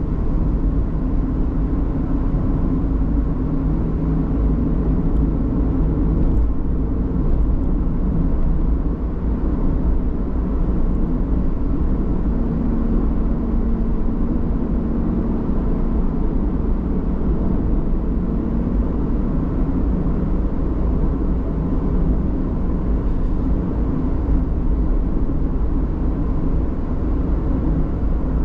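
Steady engine and tyre noise of a car driving along the road, a continuous low rumble with a faint hum that grows stronger for a few seconds about halfway through.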